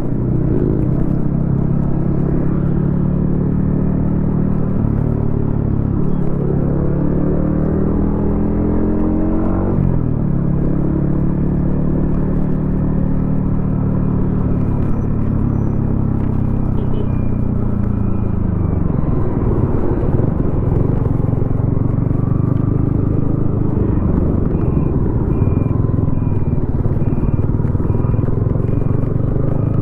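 Yamaha XSR155's 155 cc single-cylinder engine running through a DIY exhaust while riding. The engine pitch climbs, drops sharply about ten seconds in at a gear change, and sinks slowly while the bike slows. It climbs again in the last third as the bike accelerates.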